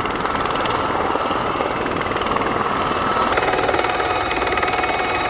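An Aerospatiale Gazelle helicopter's turboshaft engine and rotors running steadily. About three seconds in the sound shifts abruptly, and a high steady whine comes to the fore.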